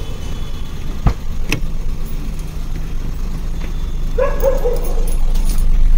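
Car engine running with a steady low rumble as the car pulls away, with two sharp clicks about a second in and a short wavering whine about four seconds in.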